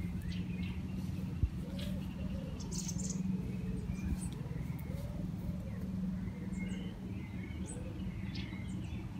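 Birds chirping and calling, with scattered short calls throughout, over a steady low hum.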